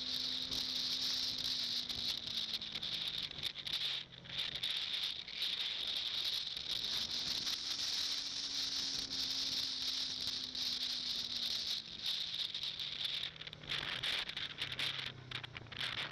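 Motorcycle engine running as the bike rides along, its pitch dropping, climbing again and dropping as the rider slows and speeds up, under a steady high hiss of wind and road noise on the camera; some rattling near the end.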